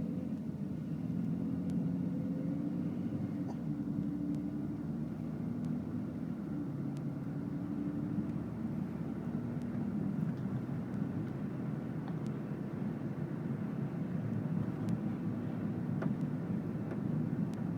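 Steady road noise heard from inside a moving car's cabin: a low rumble of tyres and engine, with a few faint ticks.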